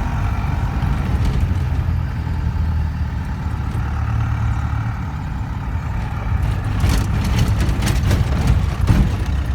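Car driving on a rough dirt track, with a steady low rumble of engine and tyres heard from inside the cabin. From about seven seconds in come a run of knocks and rattles as it goes over bumps.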